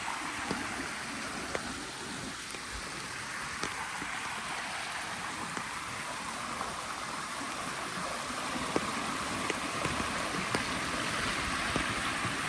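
Steady rush of running water from a rain-swollen creek and small waterfall, growing a little louder in the second half, with scattered light taps.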